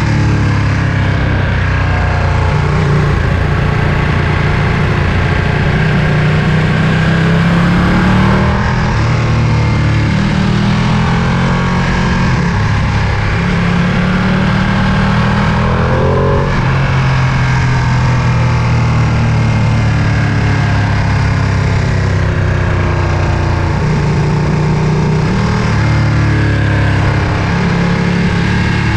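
Ducati Panigale V2's 955 cc L-twin engine running while the bike is ridden, its pitch shifting up and down several times with the throttle.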